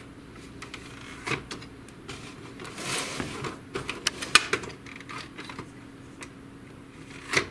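Plastic parts of an HP DeskJet GT 5820 inkjet printer clicking and knocking as they are handled during disassembly. There are several separate clicks, the loudest near the end, over a faint steady hum.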